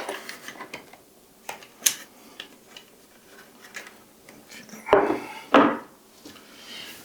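Light clicks and clinks of screws and plastic parts being handled on the wash station's base, then two louder knocks about five seconds in.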